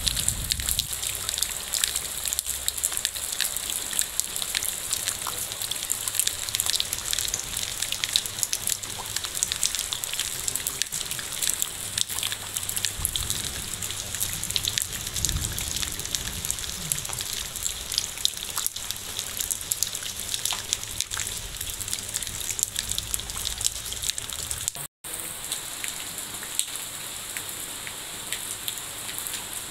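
Steady rain falling, thick with the ticks of individual drops striking close by. The sound cuts out for a moment about 25 seconds in.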